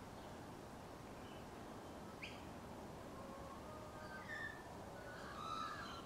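Birds calling: a single sharp rising note about two seconds in, then a run of short whistled chirps toward the end, over a steady background hiss.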